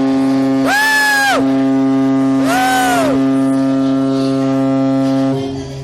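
Cruise ship's horn sounding one long, steady, deep blast that cuts off near the end. Two short whoops rise and fall over it, about a second in and again near three seconds.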